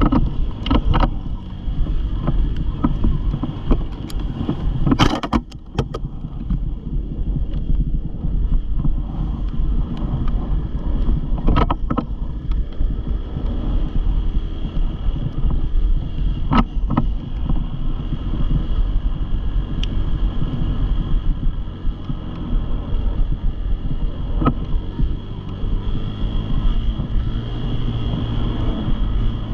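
Small dirt bike engine running steadily, mixed with wind buffeting the microphone, with a few sharp knocks.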